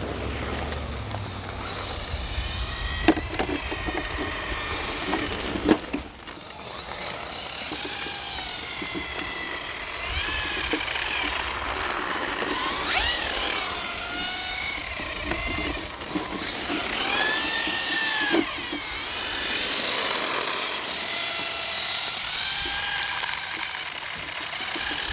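Brushless electric motors of 1/8-scale RC drift cars whining, the pitch rising and falling over and over as the throttle is worked, with a few sharp clicks along the way.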